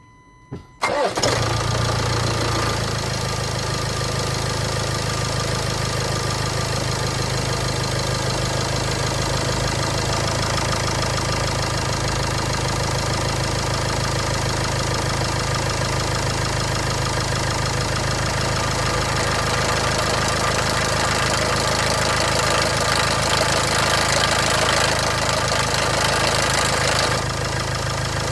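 Land Rover Discovery Ingenium diesel engine starting from cold about a second in, then idling steadily. A rattle comes in partway through the idle, the cold-start rattle the owner is recording. The upper part of the sound drops away shortly before the end.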